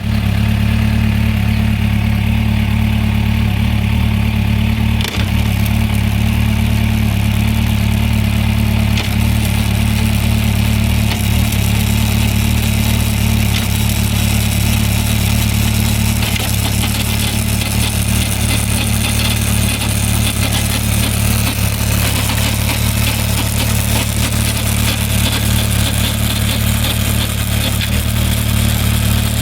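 Suzuki Bandit 1200 inline-four engine and drivetrain running steadily in fifth gear, with a strange noise that its owner cannot identify.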